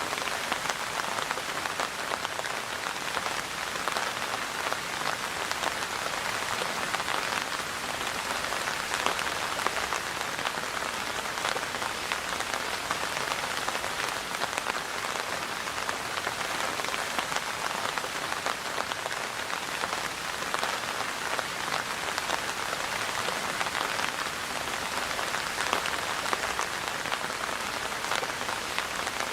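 Steady rainfall, a dense even patter of raindrops on a surface with many small individual drop ticks.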